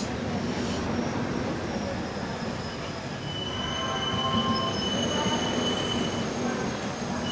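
Indian Railways express train running through a station, the steady noise of its coaches with thin, high wheel squeal from about three seconds in.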